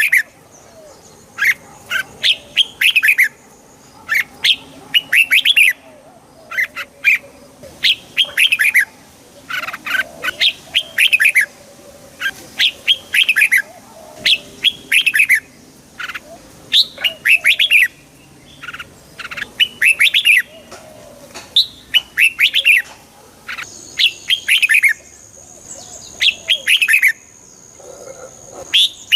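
Red-whiskered bulbul singing: short, bright phrases of a few quick chirped notes, repeated every second or two with brief pauses between.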